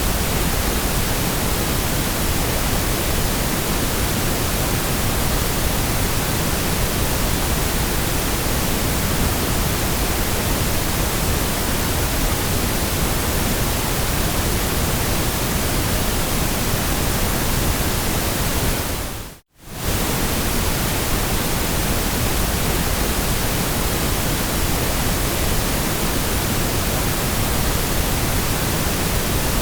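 Steady synthetic white-noise hiss, spread evenly from deep rumble to high hiss. A little over halfway through it fades away to near silence within about a second, then cuts straight back in.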